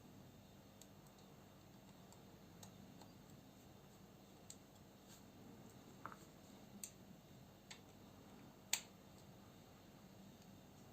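Near silence broken by a handful of faint, sharp clicks of small metal parts and a screwdriver being handled while taking apart a Ganzo FB727S folding knife, the loudest click near the end.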